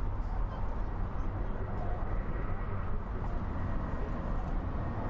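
Steady low rumble of outdoor airport noise from jet aircraft, with faint voices in the background.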